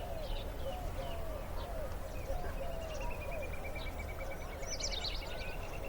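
Ambient bird calls: a steady series of short low notes repeating throughout, with a fast, even trill joining about two and a half seconds in, and a cluster of high chirps near the end.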